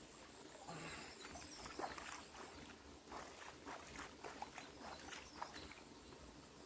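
Hot spring water sloshing and splashing in short, irregular strokes as a person moves in the pool.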